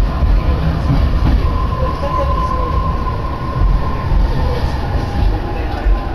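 Tokaido Line electric commuter train heard from inside the carriage. There is a heavy low running rumble, and a motor whine comes in about a second in and then slowly falls in pitch as the train slows.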